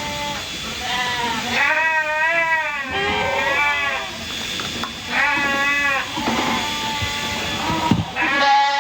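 Sheep bleating repeatedly: a series of wavering calls, the loudest about two and five seconds in, with another starting near the end.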